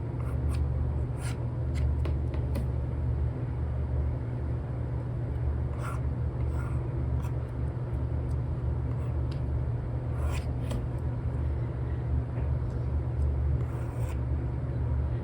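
A steady low rumble of background noise with a few scattered light ticks, likely an Apple Pencil tip tapping on the iPad screen.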